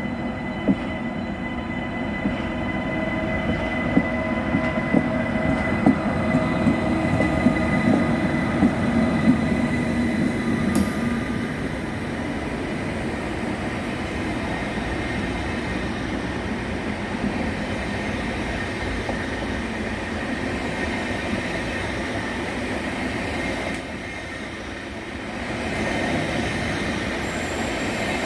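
A train rolling through the station. Its wheels clack sharply over rail joints or points for the first ten seconds or so, with steady high-pitched ringing tones over a continuous rumble. Near the end the sound briefly eases off, then swells again.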